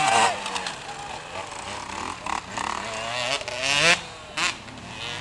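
Motocross dirt bike engine revving hard, its pitch climbing through a gear and peaking about four seconds in before dropping off sharply.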